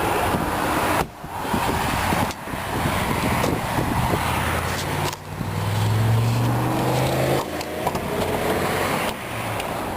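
Motor vehicle noise with a steady hiss and several sudden drops; a vehicle engine hum swells and its pitch bends between about five and seven seconds in, as a vehicle passing by would sound.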